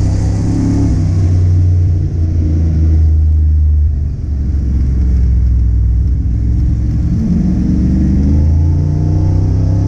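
Car engine running under load, its pitch easing with a brief dip about four seconds in, then climbing again toward the end.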